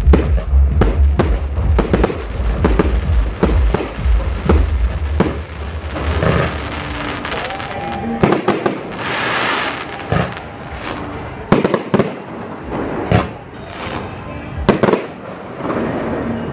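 Fireworks display: a rapid series of shells bursting with sharp bangs, with a dense crackling hiss of sparks a little past the middle.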